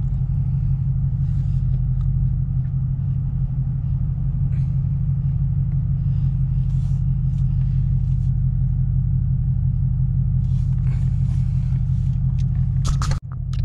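Steady low rumble inside the cabin of a 2011 BMW 750Li, its 4.4-litre twin-turbo V8 idling as the car waits and creeps forward, with a few faint clicks and a brief dip just before the end.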